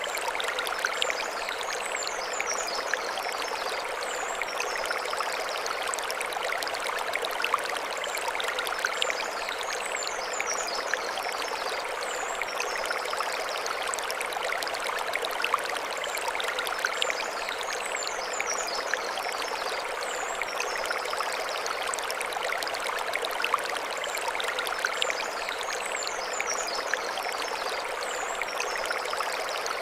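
Mountain stream running over stones, a steady rush with fine splashing. High chirps recur about every eight seconds.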